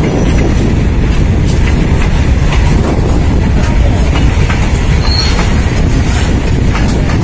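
Goods train of covered boxcar wagons rolling past: a steady low rumble of wheels on rail, with clicking over the rail joints and a brief high wheel squeal about five seconds in.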